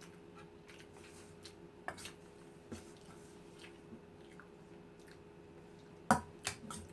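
Close-miked chewing and biting of lechon paksiw (braised roast pork), with small wet mouth clicks over a faint steady hum. A few sharper knocks come about two seconds in, and a louder cluster of knocks comes near the end.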